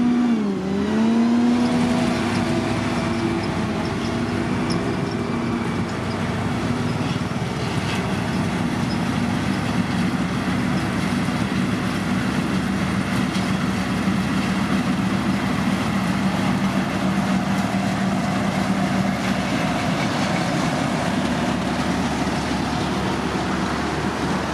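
Diesel engine of a heavy road-construction machine running steadily. Its pitch dips sharply about half a second in and then recovers, as it does when the engine briefly bogs under load.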